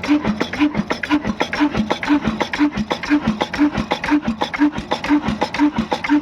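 Old heavy stationary diesel engine running steadily, with a rapid, even knocking beat and a short tone repeating about twice a second.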